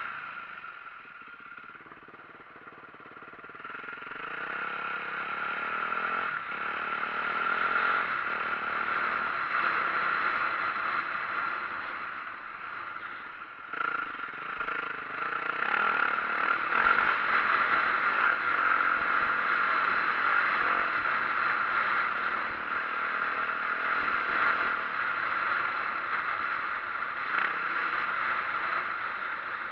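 A 2004 Yamaha YZ450F four-stroke single-cylinder dirt bike being ridden, with its engine running among clattering and scraping noise. The engine eases off about two seconds in, picks up again, dips briefly near the middle, then carries on steadily.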